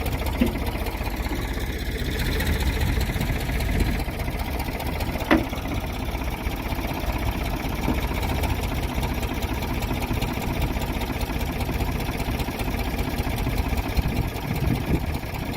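The 1984 Ford 555B backhoe's diesel engine running steadily while the machine is worked, running smooth. There is a single sharp knock about five seconds in.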